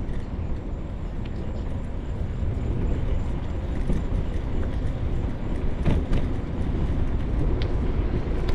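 Wind buffeting the microphone of a camera carried on a moving bicycle: a steady, uneven low rumble, with a few faint clicks and rattles.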